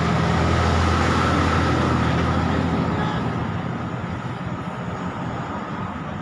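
Low engine hum of a road vehicle with traffic noise; it is steady at first, then fades from about halfway through.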